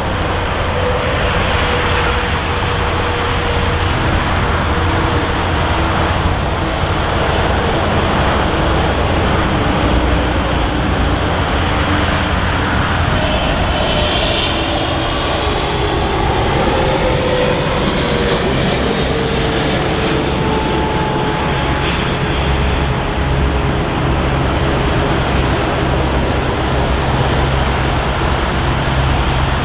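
Jet engines of an Airbus A350-900, Rolls-Royce Trent XWBs, running loud and steady as the airliner moves past, with a faint whine that slowly falls in pitch.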